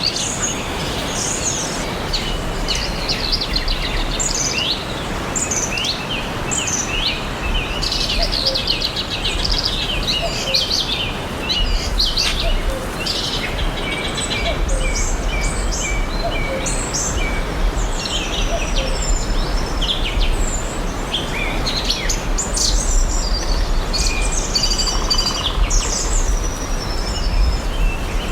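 Several birds singing and chirping together in woodland: many short chirps, trills and whistled notes overlapping throughout, over a steady background hiss and low rumble.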